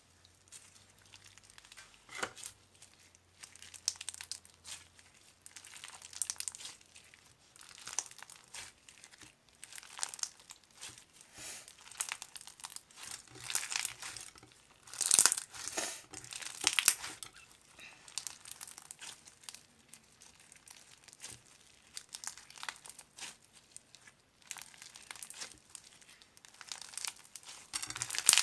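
Crinkling and rustling of wrapping being handled, in irregular bursts of crackle, loudest about halfway through.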